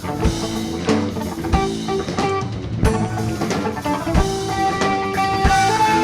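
Live rock band playing an instrumental passage: guitar notes held and changing over bass and drum kit, with drum hits at a regular beat.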